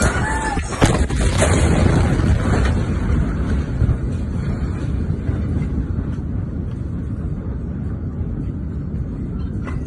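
Steady low rumbling street noise, with a sharp knock about a second in, easing slightly toward the end.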